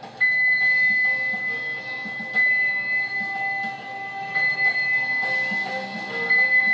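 A boatswain's pipe sounds one long, shrill, steady note over band music, swelling a few times. In naval ceremony this piping accompanies the hoisting of the colours.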